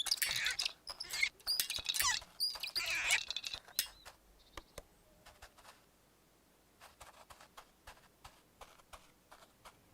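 Squeaky, chirping cartoon-style sound effects for a few seconds, then sparse light tapping clicks.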